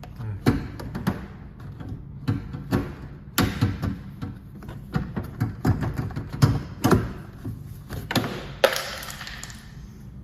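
Paintless dent repair hand tools being gathered and handled: irregular knocks, taps and clatter as the tools are picked up and set down, with some rustling between.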